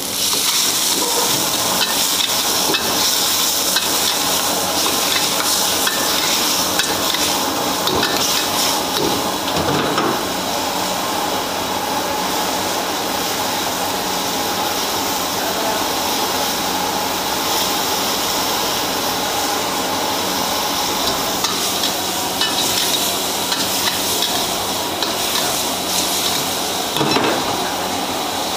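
Sliced beef in red chili sauce sizzling in a wok over a gas flame, a steady loud hiss. A metal ladle scrapes and knocks against the wok in the first several seconds while the food is stirred.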